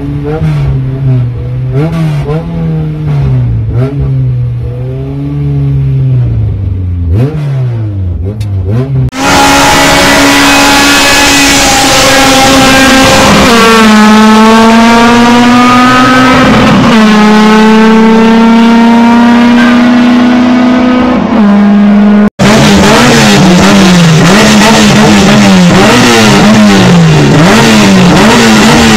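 Car engines revving hard. First a car's engine revs up and down repeatedly as it drives. Then comes a long, very loud, distorted stretch of engines held at high revs. After a sudden cut, engines are blipped up and down about once a second, as at a drag-race start line.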